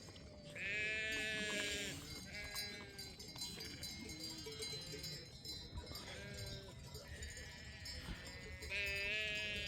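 Sheep bleating: two loud, drawn-out bleats about a second long, one near the start and one near the end, with shorter, fainter bleats from other animals in between.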